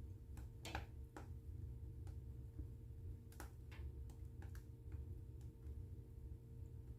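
Wood fire burning in a fireplace, crackling with irregular sharp pops over a low steady hum.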